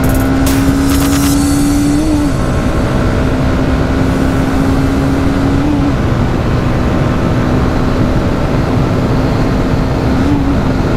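Honda CBR300R's single-cylinder engine running at a steady cruise, its note briefly bumping and then settling lower three times as the rider shifts gears, under loud wind rush on the microphone.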